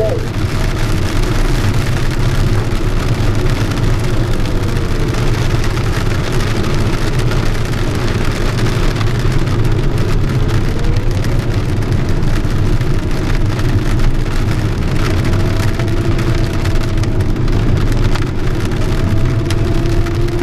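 Steady rushing airflow and rain noise inside the cockpit of a JS-1 sailplane on its landing approach in rain, with a low rumble underneath. A faint tone slowly dips and rises in pitch in the middle.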